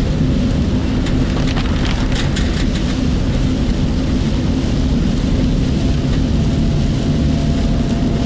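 Steady low rumble of a car driving through heavy typhoon rain and wind, heard from inside the car, with a cluster of sharp taps about two seconds in.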